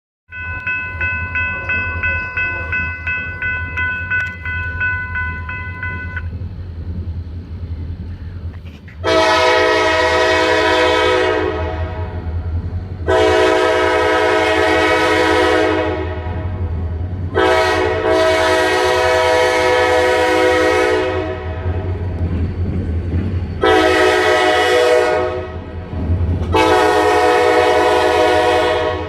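Multi-chime air horn of a Kiamichi Railroad EMD SD40-2 diesel locomotive sounding for a grade crossing: four long blasts and one shorter blast, over the steady low rumble of the diesel engines. A bell rings rapidly for the first six seconds, then stops.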